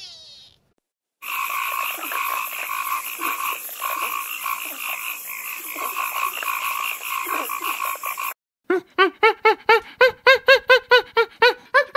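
Animal calls from two clips. First a dense, steady chorus of many calling animals for about seven seconds. Then, after a short gap, one caller gives a rapid series of short calls that each rise and fall in pitch, about five a second.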